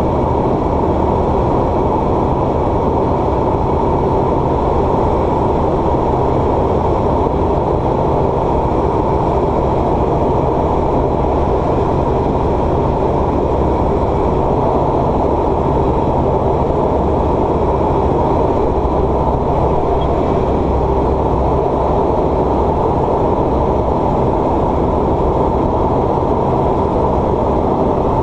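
Light aircraft's piston engine and propeller heard from inside the cockpit: a loud, steady drone that does not change.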